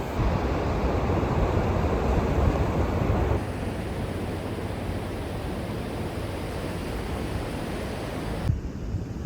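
Steady rushing of ocean surf and wind on the microphone, changing abruptly twice in level and tone.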